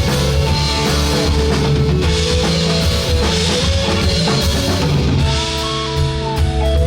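Live band playing an instrumental passage of a rock-style song: drum kit and bass keeping a steady beat under guitar. About five seconds in, a held melody line comes in over the rhythm.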